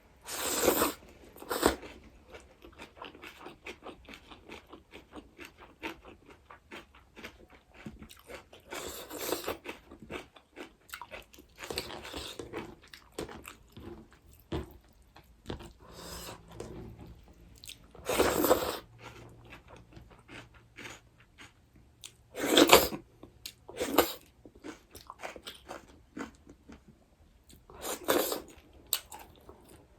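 A person chewing crunchy food with the mouth close to the microphone: quick, fine chewing clicks throughout, broken every few seconds by a loud crunching bite, about eight in all.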